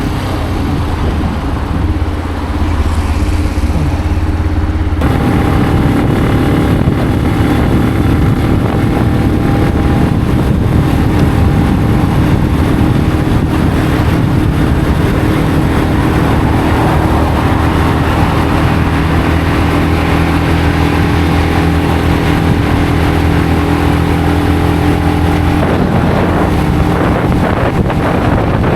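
Benelli BN125's single-cylinder 125 cc engine running while the motorcycle is ridden on the road. The sound changes suddenly about five seconds in, to a louder, fuller note with more rush, and the engine note shifts again near the end.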